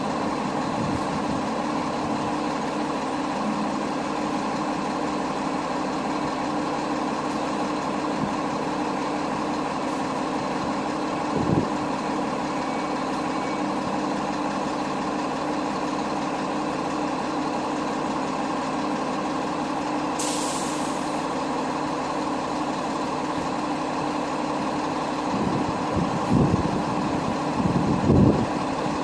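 Heavy truck engine running steadily, heard as a constant drone, with a short burst of air hiss about twenty seconds in and a few low thumps near the end.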